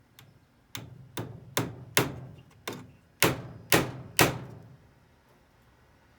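Hammer driving a nail into a wooden board: a light tap, then about eight sharp strikes at roughly two a second, stopping a little over four seconds in.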